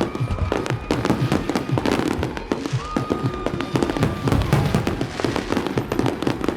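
Many fireworks and firecrackers going off at once in a dense, unbroken barrage of bangs and crackles. A thin, steady high tone rises out of it for about a second and a half near the middle.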